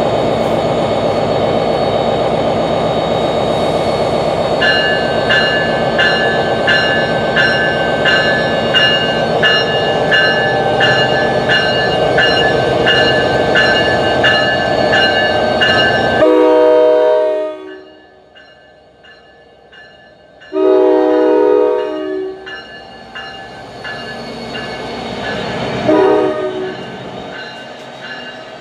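NJ Transit electric train arriving: the locomotive runs with a loud, even roar while its bell rings steadily about once a second. The roar then drops away and a multi-note air horn sounds in three blasts.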